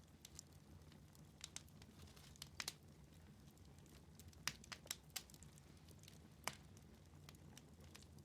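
Wood fire in a fireplace crackling: scattered sharp pops, some in quick clusters of two or three, over a faint steady low hum.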